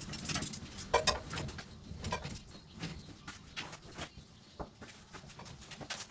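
Irregular knocks, taps and rustles of household items being handled and moved while cleaning.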